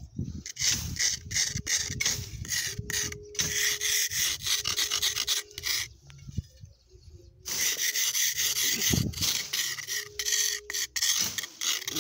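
Machete tip scratching into soft sandstone in repeated rasping strokes, with a short pause just past the middle.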